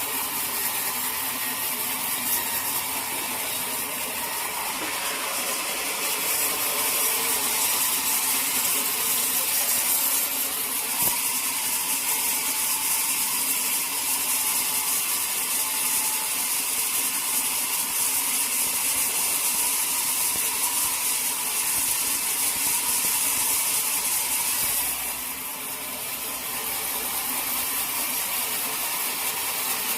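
Sawmill saw running through a teak log, a steady mechanical noise with a high hiss. The cut gets louder several seconds in and eases off briefly about 25 seconds in.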